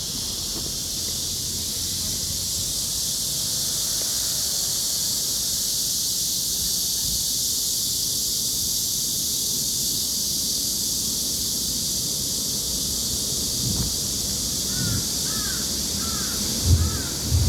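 Steady high-pitched hiss of forest ambience, with a bird giving four short calls near the end and a few low thumps.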